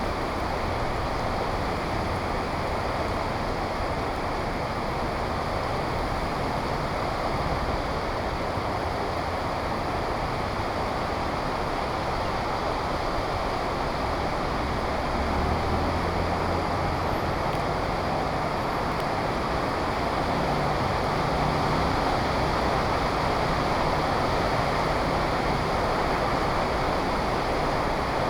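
Heavy rain pouring down steadily in an even, dense hiss, with street traffic running low underneath.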